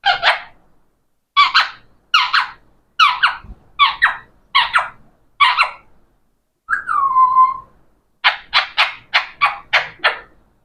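Parrot calling in short harsh squawks, about one every 0.7 s. Near the middle it gives one whistled note that slides down and holds, then a quick run of about eight squawks near the end.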